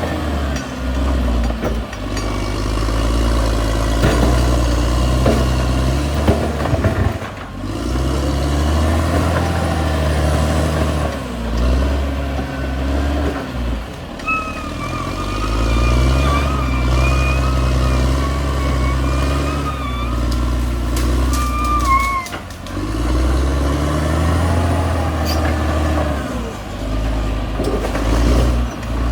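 Caterpillar D6R XL bulldozer's diesel engine working under load, its revs dipping and climbing again several times as it pushes. A high, wavering squeal runs through the middle for several seconds.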